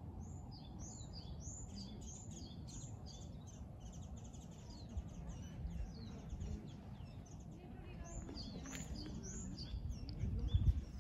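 Small birds chirping, a busy run of short, high, quick calls over a steady low rumble, with a louder low thump near the end.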